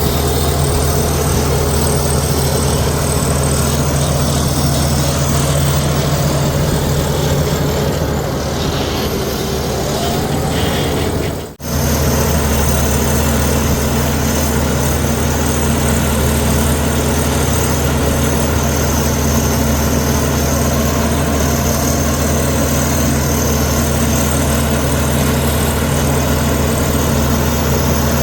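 Komatsu D61EX bulldozer's diesel engine running steadily with a deep, even drone. The sound drops out for a split second about halfway through, then carries on as before.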